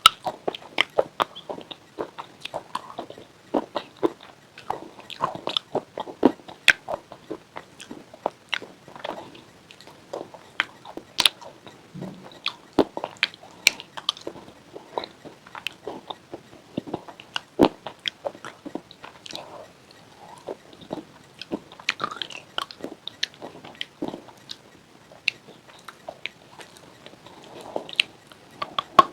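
Close-up crunching as a person bites and chews hard, brittle white chips with a pink coating: a steady run of sharp, irregular cracks, several a second.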